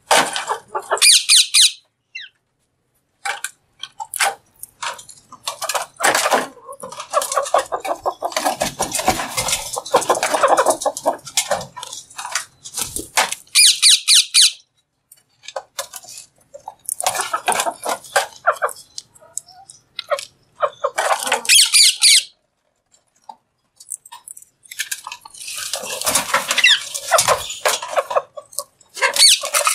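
Green parrot vocalizing: several short, shrill screeches scattered through, with longer stretches of lower, talk-like chattering between them.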